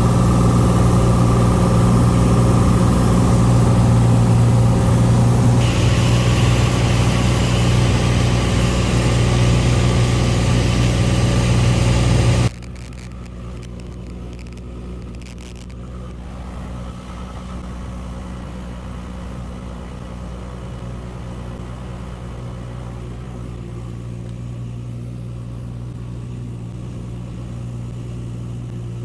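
Steady drone of a Cessna 182 Skylane's piston engine and propeller. About halfway through, the level drops suddenly and the drone goes on quieter and duller.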